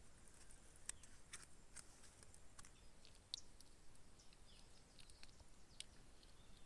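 Near silence with faint, scattered sharp ticks and a few short high chirps.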